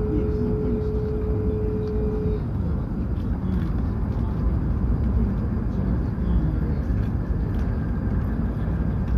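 Hokuriku Shinkansen train running, heard inside the passenger cabin: a steady low rumble of running noise. A steady hum rides over it and stops about two and a half seconds in.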